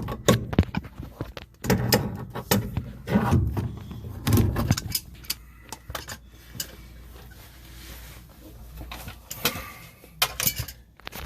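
Metal clinks, clicks and knocks of hand tools and parts being handled at a washing machine's drain pump and hose clamps. They come in several short clusters, with the densest near the start, around the middle, and a second or so before the end.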